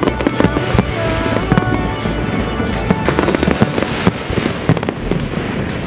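Aerial fireworks display: a rapid string of bangs and crackles, with music playing underneath.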